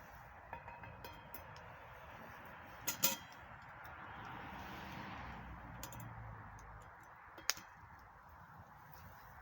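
Campfire crackling: a steady hiss of burning wood with sharp pops, two close together about three seconds in and one loud one later.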